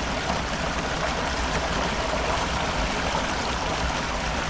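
Floodwater rushing steadily through a street, a constant roar of flowing water.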